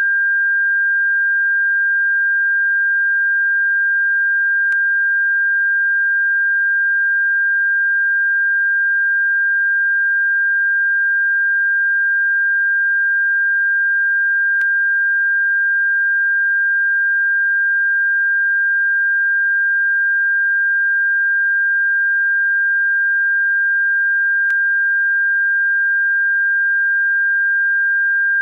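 A steady, electronically generated pure tone held at one unchanging high pitch, played as a bird-repellent sound, with a very faint tick about every ten seconds.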